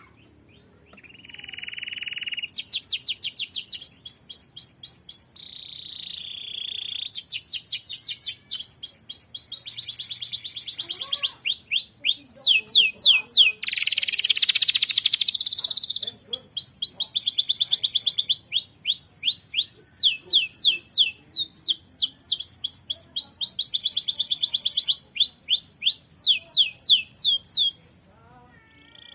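Domestic canary singing a long, unbroken song of rapid trills: fast runs of repeated sweeping notes, several a second, broken by short held whistles and a buzzy roll midway. It stops abruptly near the end.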